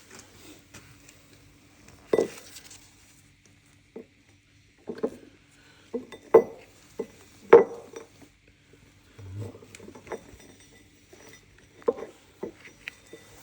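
Hard metal parts clinking and knocking together in about ten separate irregular strikes, over a faint steady hum.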